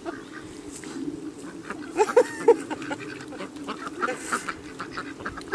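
A group of ducks quacking, with three short loud quacks about two seconds in over a continuous low chatter from the flock.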